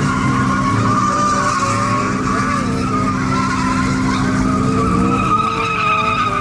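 Pickup truck doing a burnout: the engine is held at steady high revs while the spinning tyres squeal against the pavement. The engine note changes about five seconds in.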